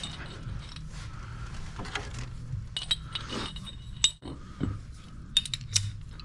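Steel weld-on D-ring tie-downs clinking against each other, sharp metallic ticks with a brief ring, in a few clusters with a flurry near the end, over a steady low hum.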